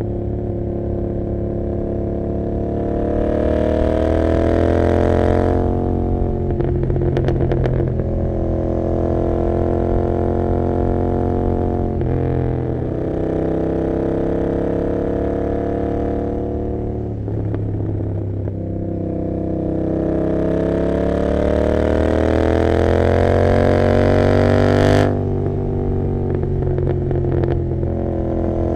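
Royal Enfield Continental GT 650's parallel-twin engine, open through an Emgo cafe muffler with no dB killer, pulling hard through the gears. Its pitch climbs steadily in each gear and drops at each of three upshifts.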